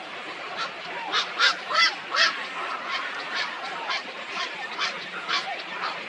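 A flock of waterfowl calling, with a dozen or so short, loud calls rising over a constant background chatter of many birds. The loudest calls come between about one and two and a half seconds in.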